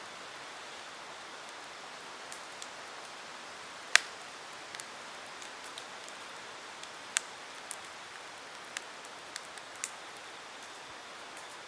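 Campfire burning with a steady hiss and irregular sharp crackling pops from the burning wood. The loudest pop comes about four seconds in, followed by a scattering of smaller ones.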